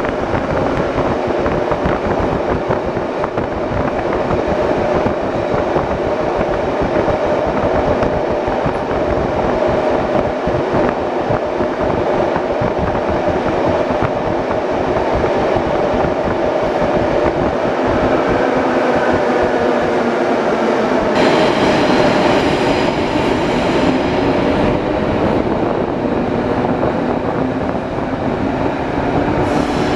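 Commuter train running through an underground station, heard from inside the carriage: a steady rumble and hum of wheels and running gear on the rails. A brighter hiss joins for about three seconds a little past the middle.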